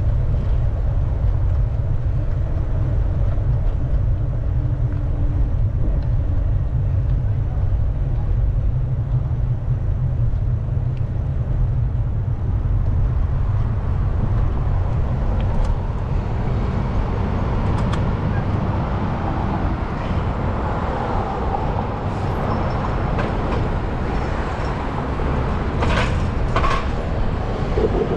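Wind rumbling on the microphone of a moving bicycle, with city street traffic passing. The traffic grows louder in the second half, and two short hisses come near the end.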